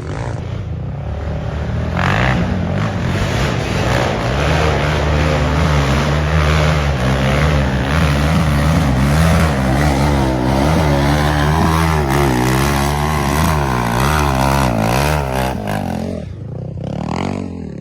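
Off-road ATV engine revving up and down while riding, its pitch rising and falling with the throttle, then easing off about sixteen seconds in.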